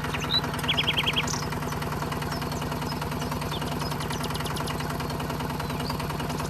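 Small electric motor and gearing of a DIY miniature tractor running steadily, a constant hum with fast, even gear ticking. A quick run of high chirps comes about a second in.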